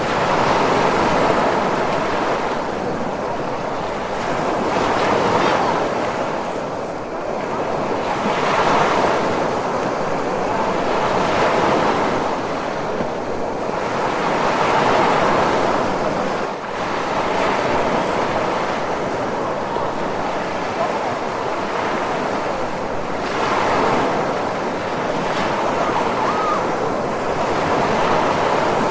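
Ocean surf: a continuous wash of waves that swells and eases every three to four seconds.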